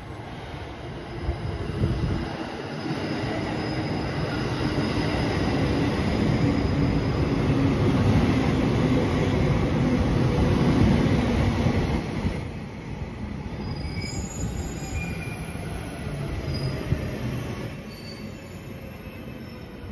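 JR Hokkaido 733-series and 731-series electric train pulling into the station: the rumble of wheels on rail builds and runs loud for about ten seconds, then eases off sharply as the train slows. Brief high squeals and a faint falling whine come as it draws to a stop.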